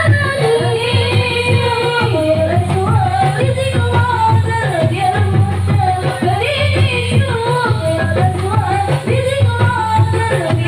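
Marawis ensemble playing: hand drums beat a steady, dense rhythm under a wavering sung melody.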